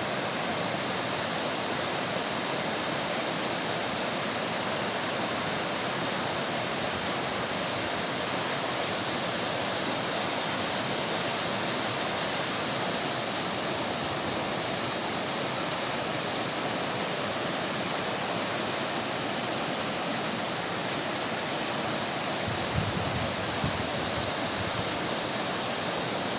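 Waterfall rushing steadily, an even wash of falling water. Two brief low bumps come about three-quarters of the way through.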